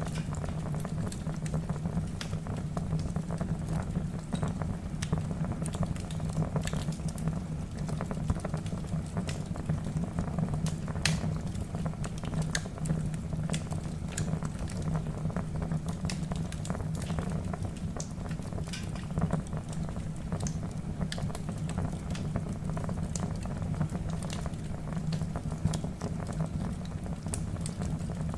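Wood fire burning in a fireplace, a steady low rumble of flames with frequent irregular crackles and snaps from the logs.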